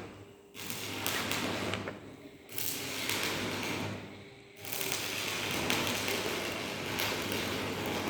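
Electric arc welding: a crackling, sputtering hiss that starts and stops three times, as the arc is struck and broken.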